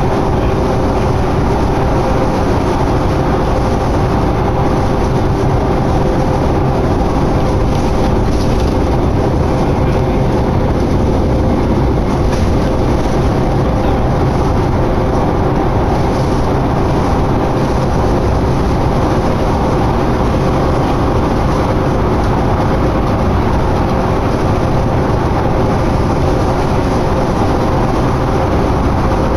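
Inside a moving 2011 New Flyer D60LFR articulated diesel bus: steady engine and drivetrain drone with a constant hum, under continuous road and tyre noise.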